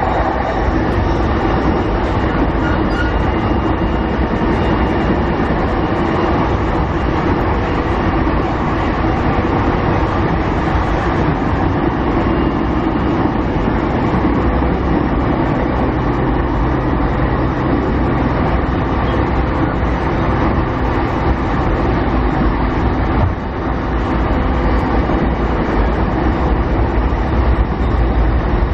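Interior running noise of a JR 209 series 500 electric train's motor car under way: a steady loud rumble of wheels on rail with a faint motor hum, heard inside the car. The rumble dips briefly about 23 seconds in.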